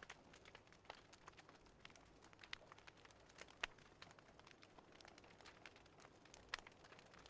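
Fireplace crackling faintly, with irregular sharp pops and snaps over a soft steady hiss.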